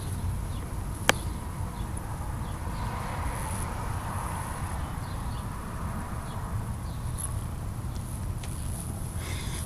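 Outdoor ambience: a steady high insect trill, such as crickets, over a low rumble. A single sharp click about a second in.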